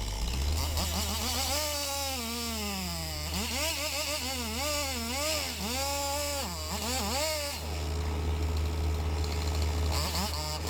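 Compact excavator's diesel engine running steadily, with a higher pitched whine that rises and falls over and over for several seconds as the machine works.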